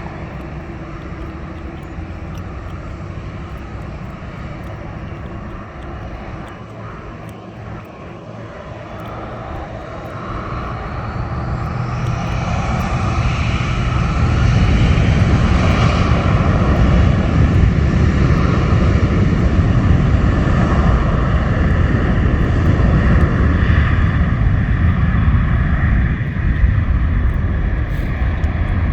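Jet airliner engines, steady and growing louder over several seconds as the plane nears, then staying loud as it passes close by.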